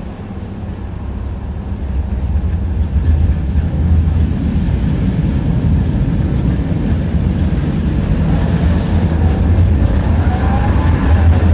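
Tram running on its rails, heard from inside the car: a steady low rumble of the wheels and running gear that grows louder over the first few seconds and then holds. Near the end a faint tone rises and falls.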